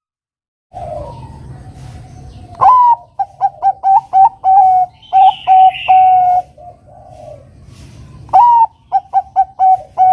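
Zebra dove (perkutut, Bangkok type) cooing its song twice: each phrase opens on a higher note, then runs into a quick string of short coos ending on a longer held coo. The second phrase starts about eight seconds in, over a faint low hum.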